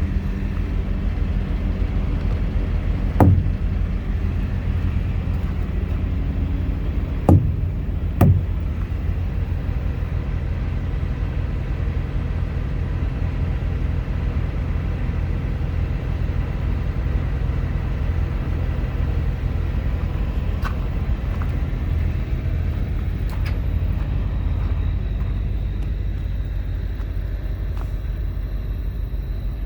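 Heavy truck's diesel engine idling steadily, with three sharp knocks about 3, 7 and 8 seconds in.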